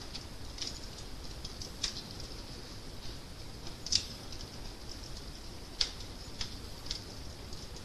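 Crackling fire: a steady low hiss with irregular sharp pops and snaps, the loudest about four seconds in and again near six seconds.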